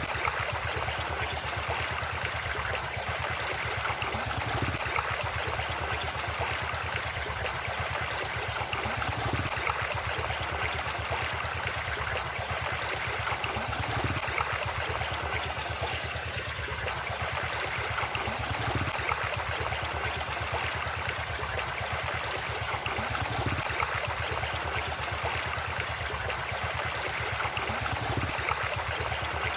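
River water flowing in a steady rushing stream.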